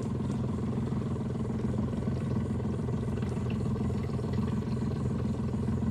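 Boat motor running steadily at low cruising speed, a constant low hum.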